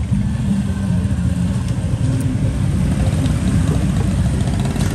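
Steady road traffic: motor vehicle engines running, heard as a continuous low rumble.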